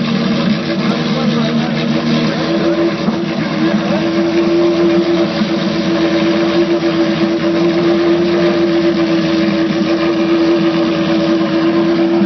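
Ferrari FXX's 6.3-litre V12 engine running at raised revs. Its pitch steps up about two to three seconds in and then holds steady.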